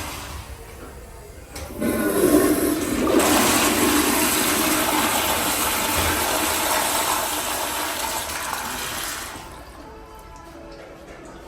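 A commercial restroom fixture flushing: the rush of water starts suddenly about two seconds in, runs hard for about seven seconds, then drops away.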